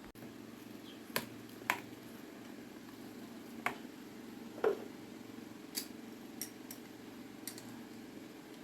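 Irregular light clicks and taps, about eight in all, the loudest a little under five seconds in, over a steady low hum: small parts being handled during a fan repair.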